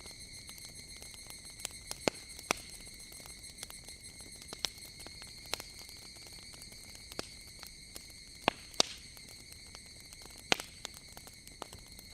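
Wood fire crackling with scattered sharp pops over a steady, high-pitched chorus of higurashi (evening cicadas, Tanna japonensis).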